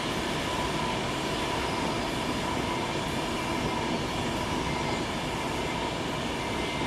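Class 390 Pendolino electric train passing: a steady rumble of wheels on rail with a steady whine running through it.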